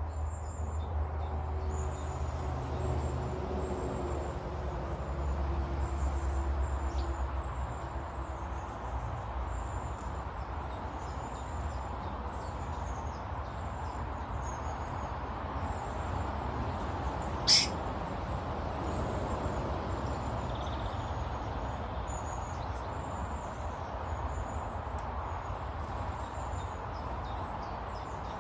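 Outdoor garden ambience of birds. High, thin chirps repeat steadily about once or twice a second over a low rumble, and one short, sharp call about two-thirds of the way through is the loudest sound.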